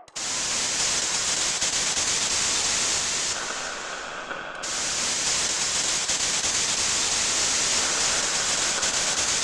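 Loud hiss of static-like noise that cuts in abruptly. It runs steadily, turning duller for about a second a few seconds in, then returning to full brightness.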